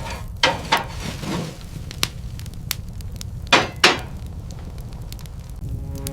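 A series of sharp knocks at uneven intervals, about eight in all, the two loudest near the middle, over a steady low rumble.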